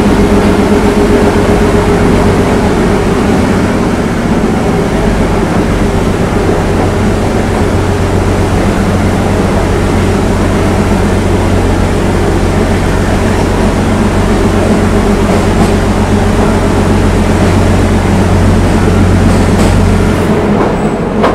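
Meter-gauge diesel passenger train running, heard from aboard: a loud, steady rumble of wheels on the track with a constant low engine drone.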